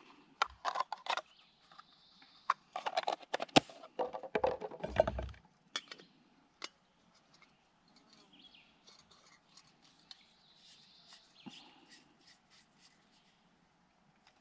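Clicking and rattling of camp gear being handled for about the first five seconds, a few single clicks after that. Faint birds chirp in the quieter stretch.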